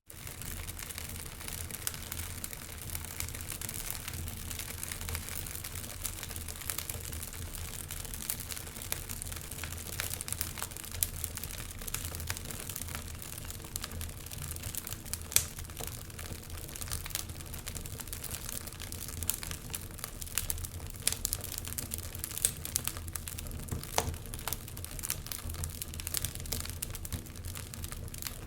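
Wood fire crackling in a fireplace: a steady low hiss and rumble with frequent sharp pops and snaps scattered irregularly throughout.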